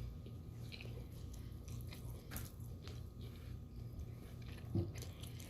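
Faint chewing and biting of a mouthful of pizza crust, with scattered small crunchy clicks.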